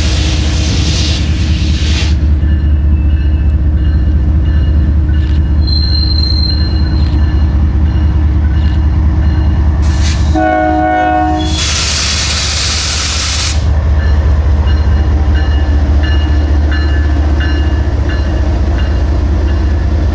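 Diesel freight train running by with a heavy, steady low engine rumble. About ten seconds in, its horn gives one short multi-tone blast of about a second, and there are bursts of rushing noise near the start and just after the horn.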